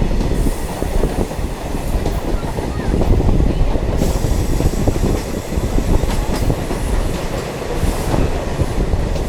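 Diesel multiple unit train running along the track, heard on board: a steady rumble of wheels and engine, with the clatter of wheels over rail joints.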